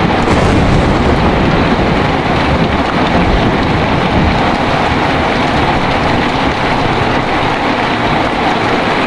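Heavy rain falling steadily, with a deep rumble of thunder underneath that is strongest in the first half.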